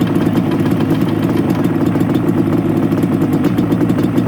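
A small vehicle engine idling steadily with a fast, even pulse.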